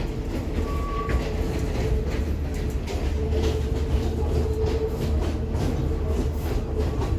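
Passenger train running at speed, heard from inside the carriage: a steady low rumble with a steady hum and light rattles.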